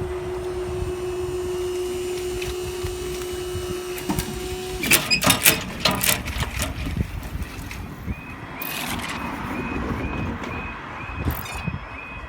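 Level crossing barriers rising: the barrier mechanism hums steadily for about five seconds, then stops with a clatter of several knocks as the booms reach the top. About eight seconds in, a rapid high chirping starts, about three a second.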